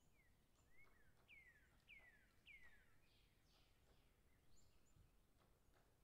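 Faint wild birdsong: three clear whistled notes, each falling in pitch, come about half a second apart a little over a second in. Softer falling calls and thin high chips follow.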